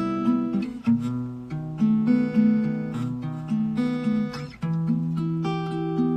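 Acoustic guitar music: chords strummed and plucked, changing about every second, with no singing.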